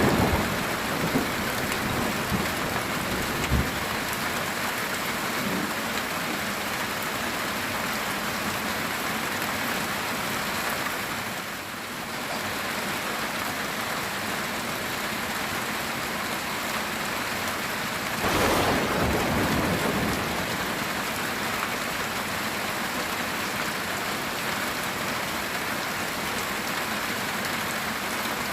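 Heavy rain on a metal tin roof, a steady patter, with thunder: a few sharp cracks and rumbles in the first few seconds, and a louder roll about two-thirds of the way through.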